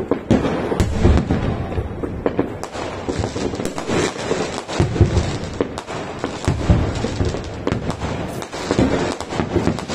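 Aerial fireworks display: shells bursting in a rapid, continuous barrage of bangs and crackles, with heavier booms about one, four, five and nearly seven seconds in.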